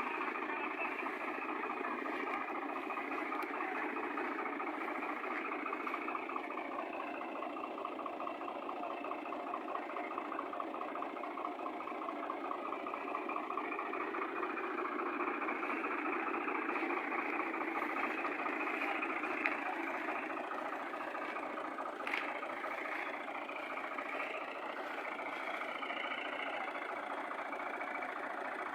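Fiat tractor engine running steadily at an even speed, with the fast, regular beat of its firing.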